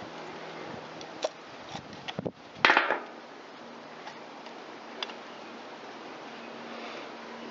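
Small clicks and knocks of tools and parts being handled on a workbench, with one louder short clatter about two and a half seconds in.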